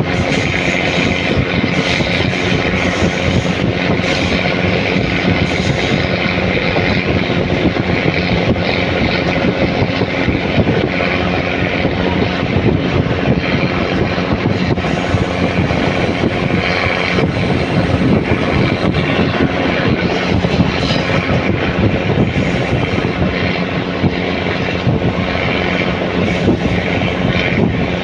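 Diesel train engine working hard, a steady loud drone as the train accelerates away from a station under power.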